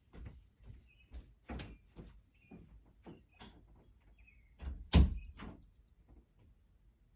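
A string of irregular knocks and thumps, the loudest about five seconds in, with faint short bird chirps between them.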